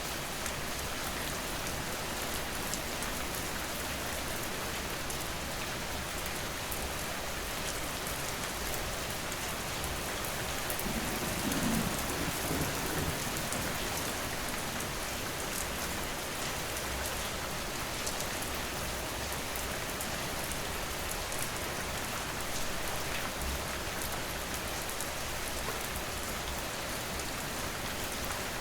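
Steady heavy rain falling, a dense, even hiss of drops on surfaces, with a brief low rumble about halfway through.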